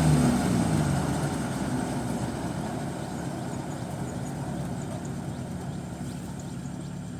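Combine harvester engine running with a steady drone, its pitch falling slightly in the first second and the sound growing gradually quieter.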